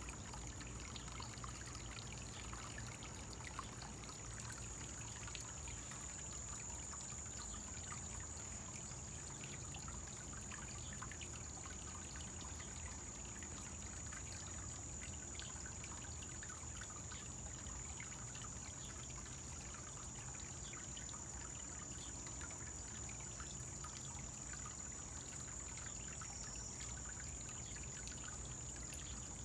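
Small koi pond waterfall trickling and splashing steadily, with a thin, steady high-pitched tone above it.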